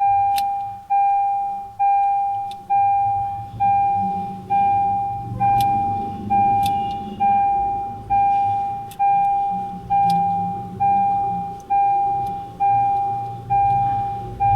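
Car warning chime repeating steadily, a little more than once a second: one bell-like tone that sounds and fades each time. A few faint plastic clicks are heard under it.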